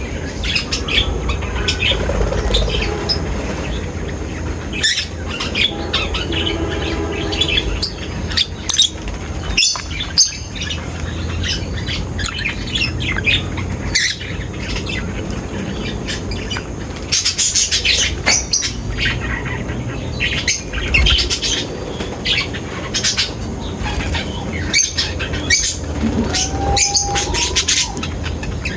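A flock of pet birds chirping in many short, overlapping calls, over a steady low rumble.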